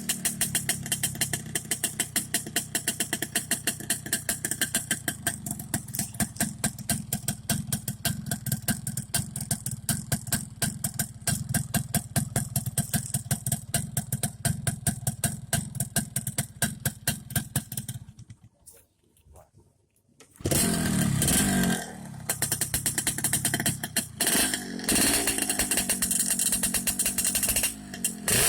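Motorcycle engine idling through an MRP aftermarket exhaust, a fast even run of exhaust pulses. About 18 seconds in the sound drops away for a couple of seconds, then comes back with a few revs that rise and fall.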